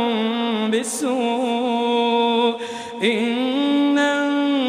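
A man's voice chanting Quran recitation in a melodic tajwid style, holding long ornamented notes. There are short breaks about a second in and just before three seconds, after which a new held phrase begins.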